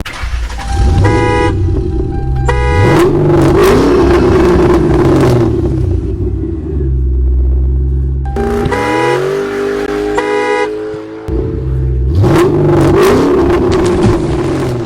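Truck horn honking in short blasts over an engine revving up and down, in a sequence of about six seconds that plays twice, like a toy's recorded truck sounds.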